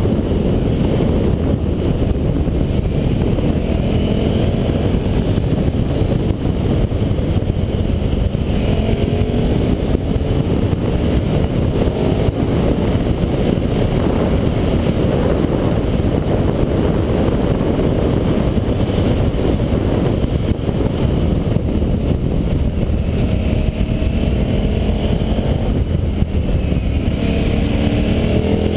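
KTM 990 SM motorcycle's V-twin engine running under way. Its pitch rises and falls several times with the throttle, over a steady loud rushing noise.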